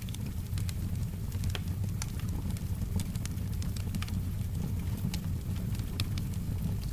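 Wood fire crackling, with sharp pops at uneven intervals over a steady low rumble.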